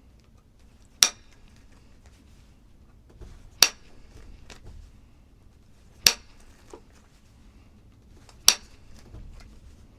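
Flintknapping: a piece of stone struck four times, about every two and a half seconds, each blow a sharp clink with a short ring, with quieter scraping of the edge between blows.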